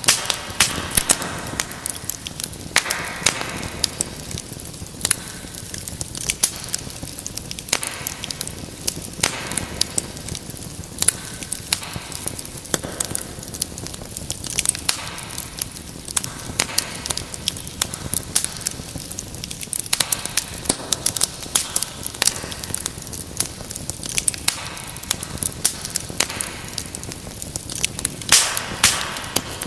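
Wood fire burning in a fireplace, crackling and popping irregularly over a steady hiss of flame.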